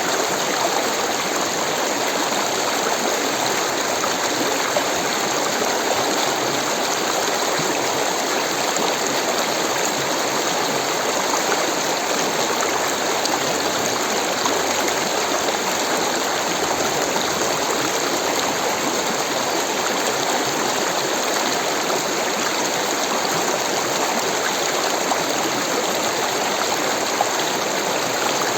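Rushing stream water, a steady even flow.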